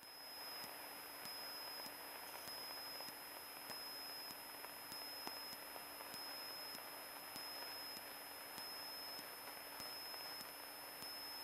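Faint hiss with a steady high electronic whine and faint regular ticks on the aircraft's radio and intercom audio feed, with the channel open between transmissions.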